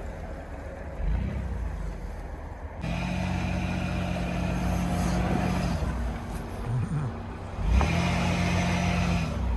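Pinzgauer 6x6 off-roader with a swapped-in Toyota engine, driving under load. The engine note rises to a steady drone twice, from about three seconds in and again near the end, and drops back after each.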